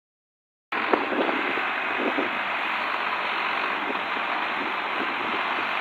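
Tractor engine running steadily, heard as a dense, even noise that starts abruptly just under a second in, with a few faint knocks in the first two seconds.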